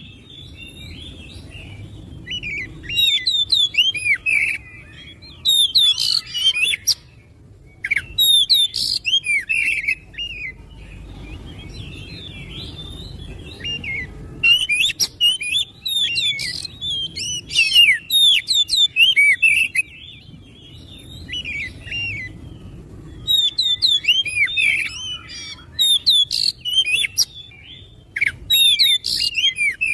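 Oriental magpie-robin (kacer) singing: bursts of quick, varied chirps and whistles with short pauses between them.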